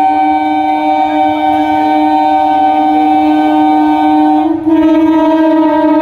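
Indian Railways local train's air horn blowing one long, loud, steady chord, which breaks briefly about four and a half seconds in and resumes at a slightly shifted pitch.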